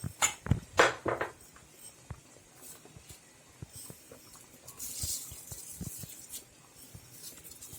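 Dry rice poured into a large paella pan, with a few sharp knocks in the first second, then a soft patter and scattered ticks of grains.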